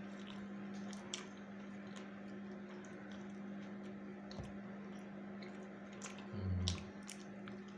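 Close-up mouth sounds of someone eating fried flounder: scattered small wet clicks and smacks of chewing. A steady low hum runs underneath, and about six and a half seconds in there is a short, louder low sound.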